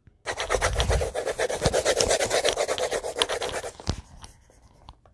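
Rapid back-and-forth colouring strokes scrubbing on paper, about a dozen strokes a second, stopping a little over halfway through.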